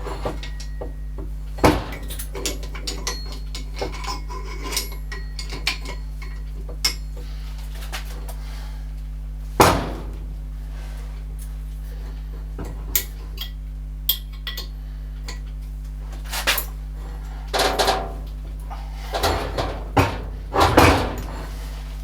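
Metal hand tools and machine parts clinking and knocking as they are handled, with louder clanks about two and ten seconds in and a run of handling noises near the end, over a steady low hum.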